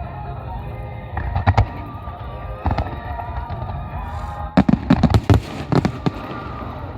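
Aerial fireworks shells bursting: a few single bangs, then a rapid cluster of bangs about halfway through, over background music.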